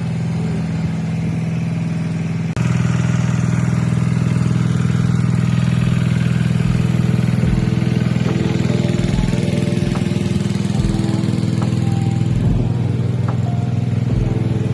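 Small gasoline engine of a portable water pump running steadily while it pumps water out of a swimming pool. It gets suddenly louder about two and a half seconds in.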